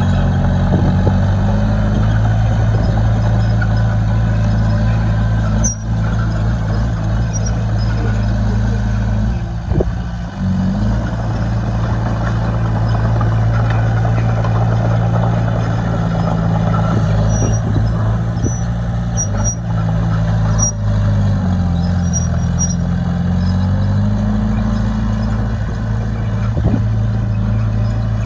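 Bulldozer's diesel engine running steadily, its engine speed dropping and rising several times as it works.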